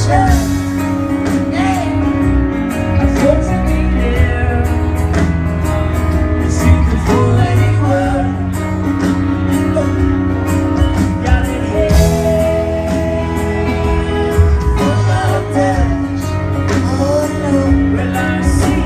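A folk band playing live: acoustic guitar with a singing voice over a steady bass and rhythm.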